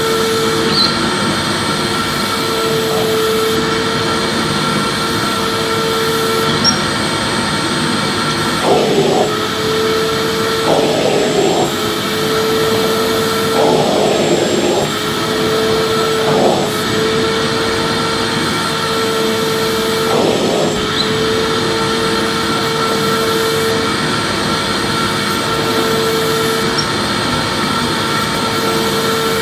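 Vacuum cleaner running steadily: a constant rushing of air under a steady motor whine, with a few brief rougher patches in the middle.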